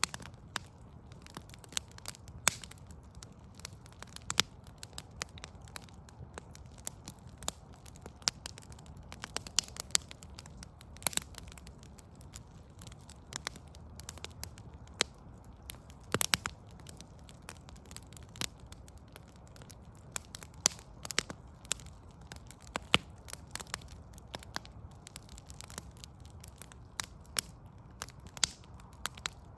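Wood fire of burning logs crackling, with irregular sharp pops and snaps, some much louder than others, over a steady low rumble.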